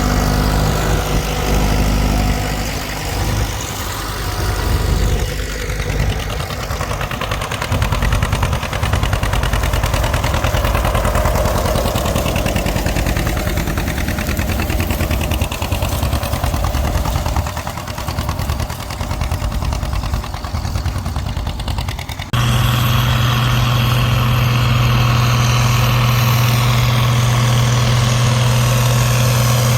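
Tractor engines running during plowing, the pitch slowly rising and falling. About three-quarters of the way through the sound changes abruptly to a single steady engine drone.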